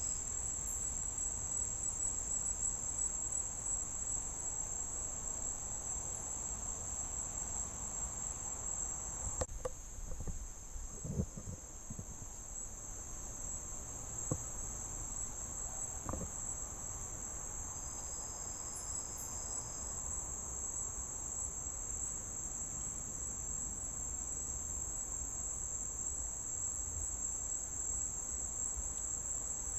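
A steady, high-pitched insect chorus trilling without a break, with a few faint knocks about a third of the way in.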